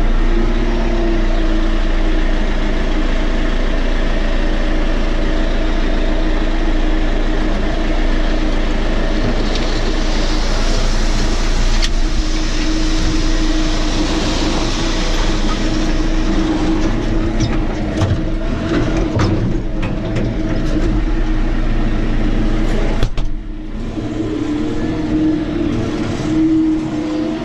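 Tractor engine running steadily, with clicks and rattles through the second half and a brief drop in level near the end.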